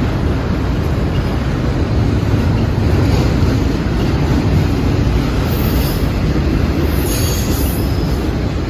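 A train rolling past close by: a loud, steady rumble of wheels on rail, with a faint high wheel squeal about seven seconds in.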